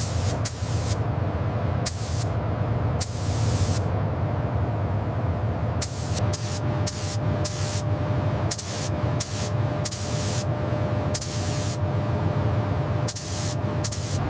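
Steam locomotive under steam: irregular bursts of steam hissing, each from a fraction of a second to about a second long, over a steady low rumble.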